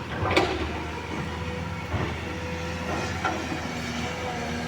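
Caterpillar 320D excavator's diesel engine running steadily, with a faint steady whine over the rumble and a few brief knocks.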